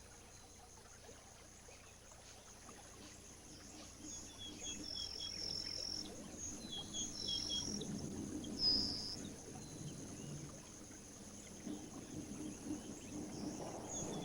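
Wetland ambience: a steady high insect hiss with short, repeated high chirping calls, and soft water sloshing and splashing that builds from about four seconds in.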